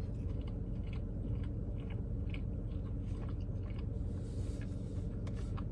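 A person chewing a mouthful of spicy chicken California roll sushi: small, irregular soft clicks of chewing over a steady low hum.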